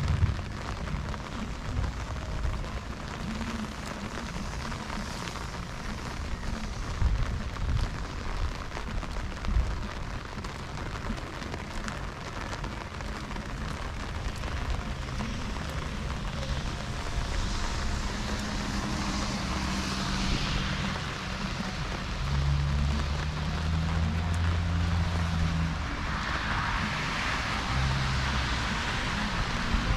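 Steady rain falling and splashing on surfaces, with a low hum lasting a few seconds after the middle.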